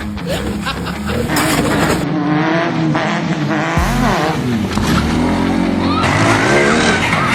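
Motorcycle engines revving, their pitch rising and falling several times.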